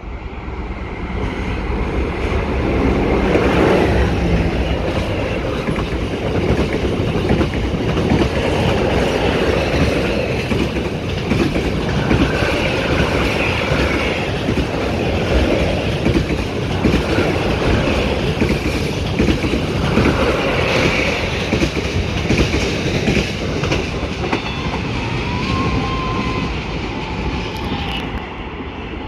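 Train passing close by on the track, its wheels clattering over the rail joints, building up over the first few seconds and easing off near the end.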